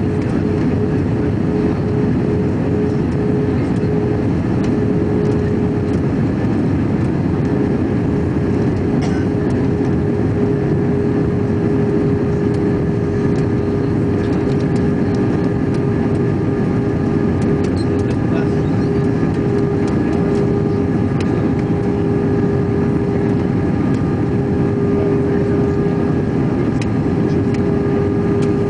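Steady cabin noise of an Airbus A321 airliner in flight: an even rush of engines and airflow with a constant hum tone running through it.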